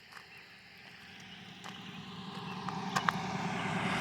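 A road vehicle approaching, its engine and tyre noise growing steadily louder, with a couple of small clicks about three seconds in.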